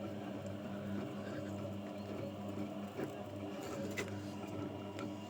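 Washing machine running: a steady motor hum with a few light clicks about three, four and five seconds in.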